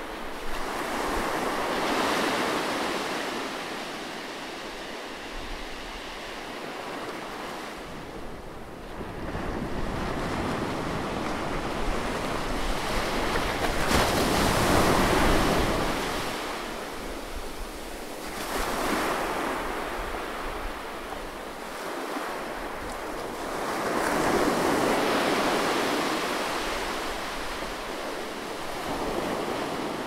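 Atlantic Ocean waves washing in. The surf swells and fades in slow surges every five to ten seconds, loudest near the middle.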